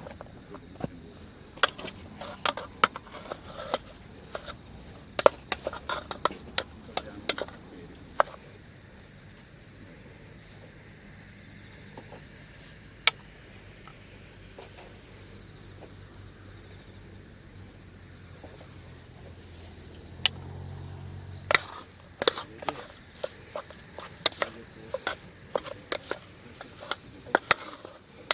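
Insects chirring in a steady, continuous high-pitched drone, with scattered sharp clicks and taps of cooking utensils being handled, busy at the start and again near the end.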